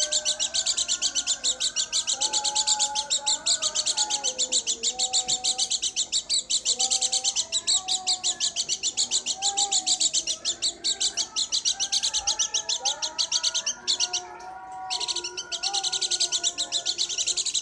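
White-eye (pleci, dakun type) singing a long, fast run of high twittering chirps, with a short break about fourteen seconds in.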